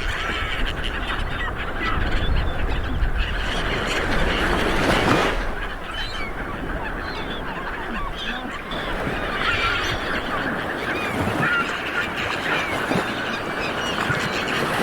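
Light waves washing onto a beach, swelling a couple of times, with many birds calling over them in short, repeated cries.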